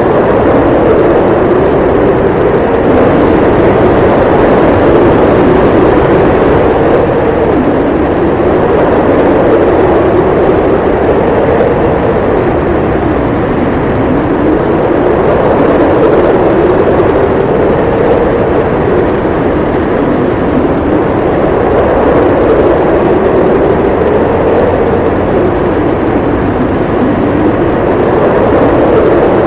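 Storm wind howling steadily, its pitch slowly rising and falling in gusts every few seconds.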